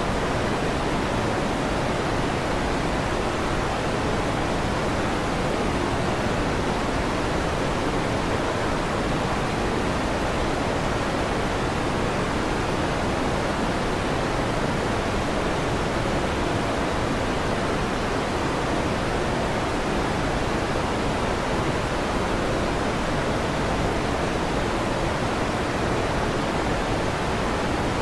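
Electric fan running with a steady, even whooshing noise that keeps the same level throughout. No thunderclaps are heard.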